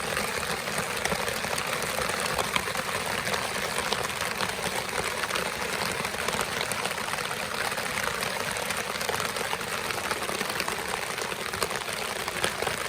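Heavy rain pouring down steadily, a dense even hiss of countless drops.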